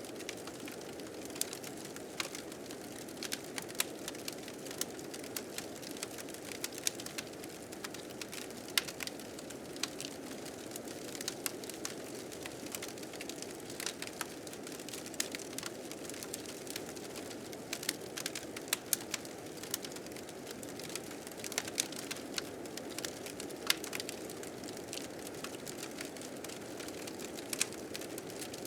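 A fire crackling with irregular sharp pops, over a steady blizzard wind.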